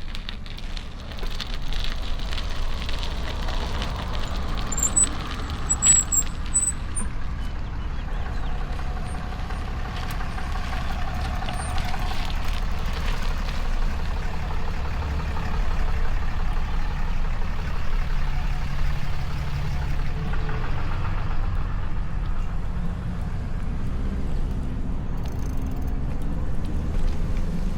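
City street traffic: motor vehicles running and passing, a steady rumble with engine tones rising and fading.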